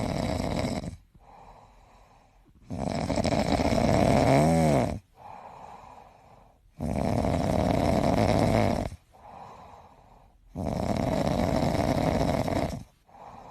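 An animal snoring: four loud, noisy breaths of about two seconds each, alternating with softer ones, with a wavering whistle-like tone in one breath near the middle.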